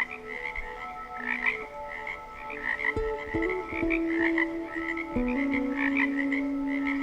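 A dense chorus of small animal calls: many short notes repeated several times a second, over soft background music. The chorus starts and cuts off abruptly.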